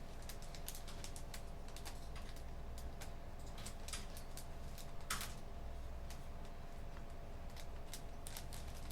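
Computer keyboard typing at an internet cafe: irregular, scattered key clicks, with a slightly louder, longer click about five seconds in. A steady faint hum and low rumble run underneath.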